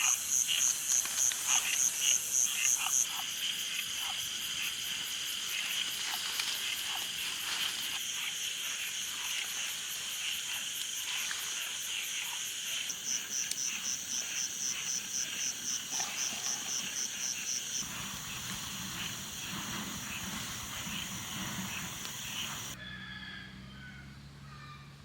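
A chorus of frogs with insects calling, a high call pulsing about twice a second over a busy layer of repeated chirps. Near the end the chorus cuts off abruptly and the sound drops much quieter.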